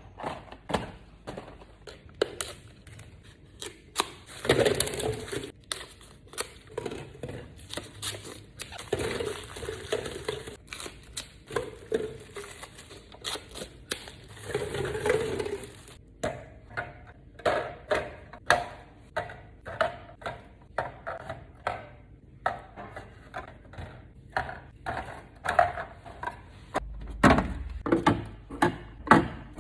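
Groceries being handled and put away: plastic packaging crinkling and rustling, with many irregular clicks and knocks of containers being set down and moved.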